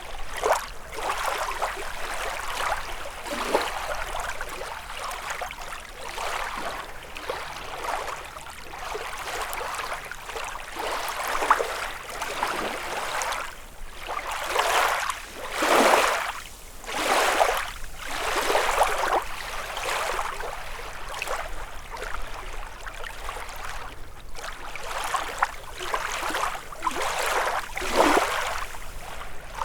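Small lake waves lapping and splashing against the shore, one surge every second or two, with the biggest splashes about halfway through and again near the end.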